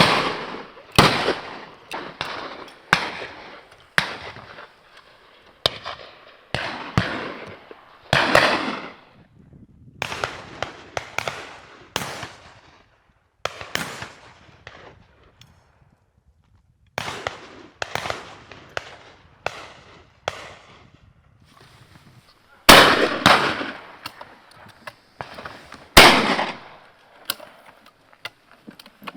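Shotguns firing a long, irregular run of shots, some close and loud and others fainter and further off, each followed by a long echo. There is a pause of about two seconds around the middle.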